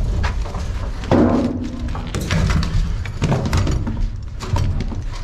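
Airsoft guns firing in an irregular series of sharp clicks and knocks, with BBs striking hard surfaces, and a few short shouts in between.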